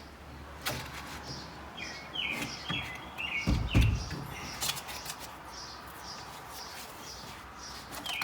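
Small birds chirping over and over, short high chirps mixed with quick falling notes, over scattered clicks and knocks. A low thump about three and a half seconds in is the loudest sound.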